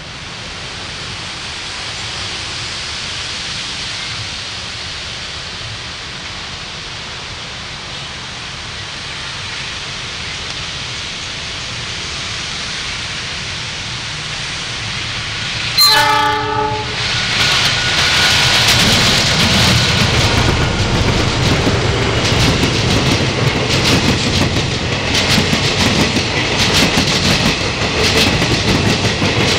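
A train approaching, its noise rising steadily, gives a short horn blast about halfway through and then passes close by, loud, with the wheels clacking rhythmically over the rail joints.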